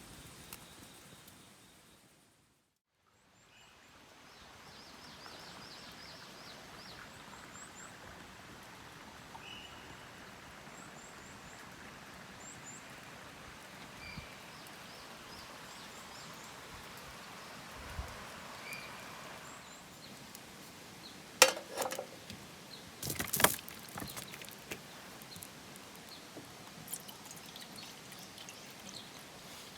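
Steady outdoor background hiss with faint, scattered bird chirps, broken by a short burst of sharp clattering knocks about two-thirds of the way through.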